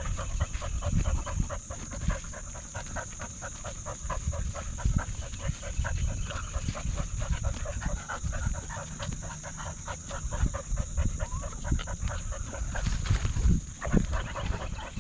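A dog panting in quick, regular breaths.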